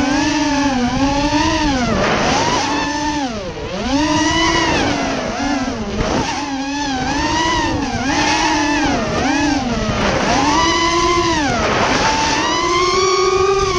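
FPV racing quadcopter's RCX 2205 2250kv brushless motors whining, the pitch swinging up and down about once a second as the throttle is worked. A low rumble of wind runs underneath.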